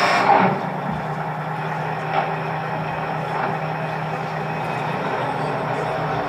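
A large engine running steadily, like a truck idling, cutting in suddenly and holding a steady low hum.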